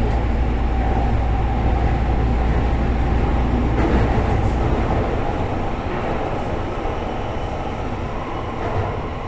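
Kobe Municipal Subway Seishin-Yamate Line train running, heard from inside the car: a steady travelling rumble with a faint steady tone, its deep low rumble easing about five seconds in.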